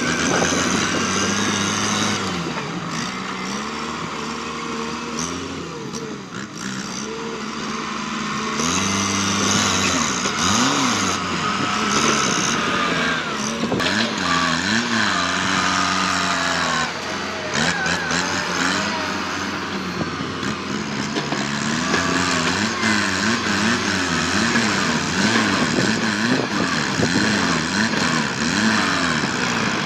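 Kubota tractor's diesel engine working under load, its revs rising and falling again and again as it pushes through brush.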